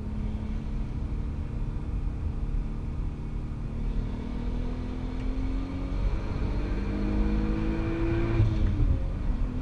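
Turbocharged 3.2-litre VR6 engine of a Golf Mk4 R32 on track, heard from inside the cabin. It holds a steady note at first, then pulls hard with the pitch climbing. Near the end the note drops once as it shifts up, then starts climbing again.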